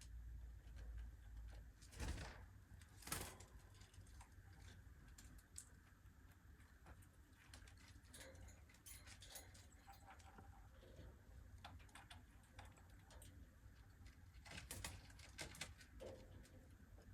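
Cockatiels making very quiet, scattered clicks and taps over a low steady hum, with a few sharper clicks about two and three seconds in and a small cluster near the end.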